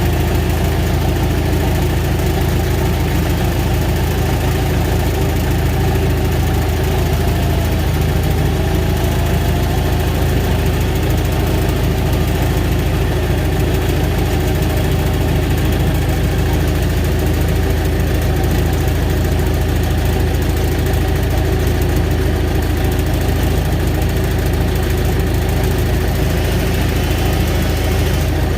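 Heavy logging machine's engine running steadily.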